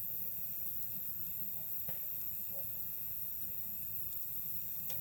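Campfire burning with a steady low rush and a few sharp crackles, the clearest about two seconds in. Insects trill steadily behind it.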